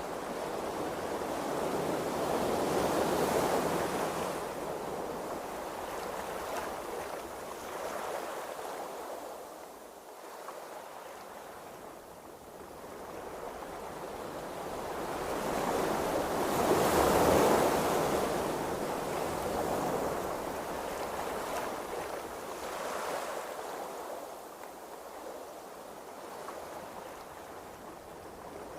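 Ocean waves washing and surging, a steady rush that swells and fades slowly, loudest about three seconds in and again around seventeen seconds.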